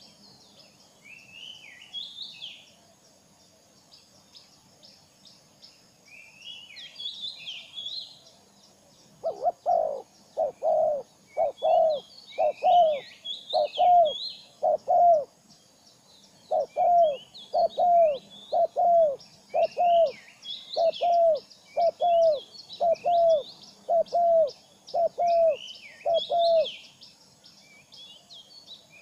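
Birds calling: small birds chirp on and off throughout, and from about nine seconds in a louder bird repeats a short, low, downward-bending hoot about twice a second in long runs.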